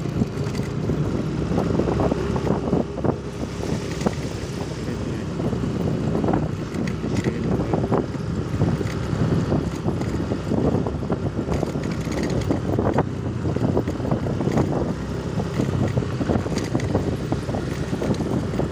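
Steady rumbling vehicle noise with wind buffeting the microphone.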